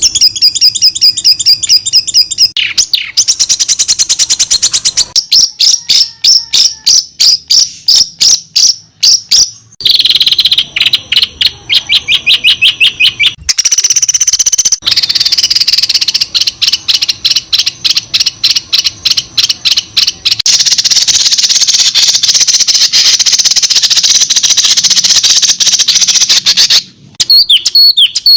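Songbird training recording (masteran) of small songbirds singing rapid, high-pitched repeated chirps and trills. It is spliced from several recordings that change abruptly every few seconds, with a dense, buzzy chattering stretch in the later part.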